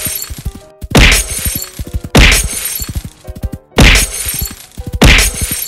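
Four loud crashes of brick walls being smashed through, each followed by a clatter of falling pieces, as cartoon sound effects over background music.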